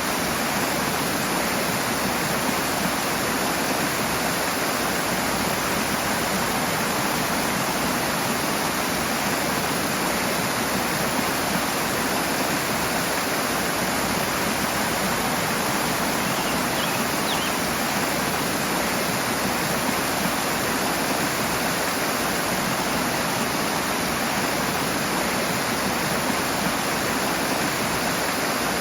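Rushing water: a steady, unbroken rush of flowing water.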